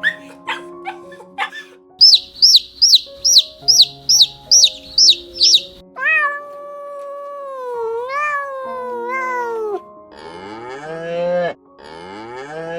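Farm-animal calls in turn over light background music. First a quick run of about ten short, high peeps, then one long wavering call lasting about four seconds, then two buzzy rising calls near the end.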